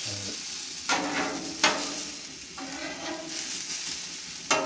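Sliced onions sizzling on the hot steel plate of a Char-Griller Flat Iron griddle, caramelising. A metal spatula turns them, scraping and tapping the plate with three sharp clicks: about a second in, half a second later, and near the end.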